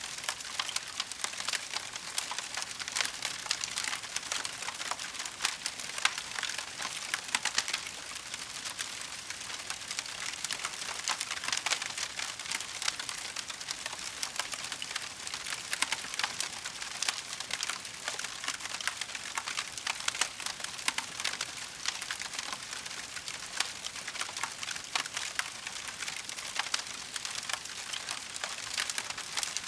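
Wood fire crackling in a fireplace: a steady, dense patter of small pops and snaps over a soft hiss.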